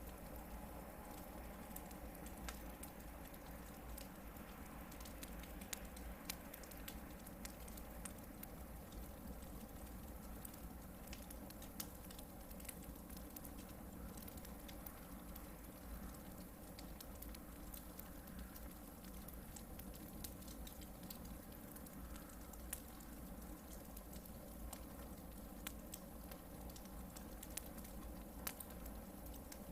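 Hardwood campfire burning, with scattered small crackles and a few louder pops over a low steady rumble.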